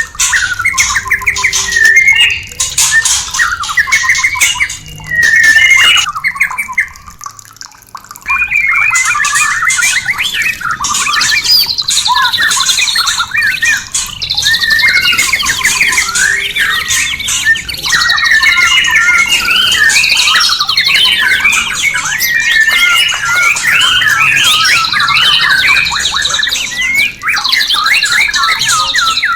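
White-rumped shama (murai batu) singing a loud, varied song of fast whistles, trills and harsh notes, with a brief lull about seven seconds in.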